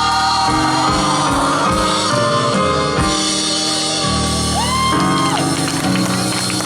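Live gospel band music: bass notes under held chords, with a pitch sliding up into a held note about five seconds in.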